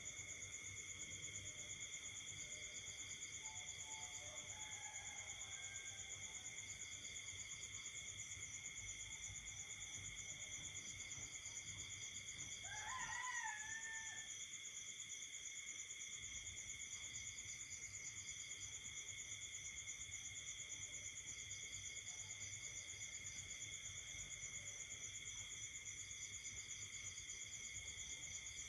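Night chorus of insects and frogs: steady high-pitched buzzing at several pitches, with a pulsed trill coming back every three to four seconds. About halfway through, a single louder wavering call rises and falls for about a second and a half over the chorus.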